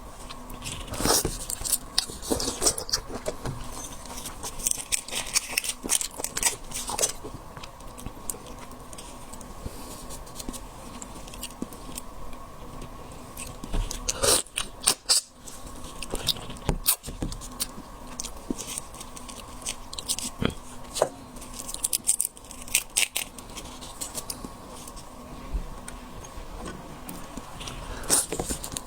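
Shellfish being handled and shelled by hand: scattered clicks, crackles and scrapes of shells, in clusters, over a faint steady hum.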